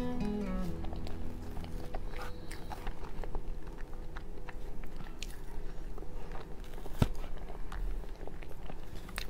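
A person chewing soft cake close to the microphone, with many small mouth clicks and one sharper click about seven seconds in.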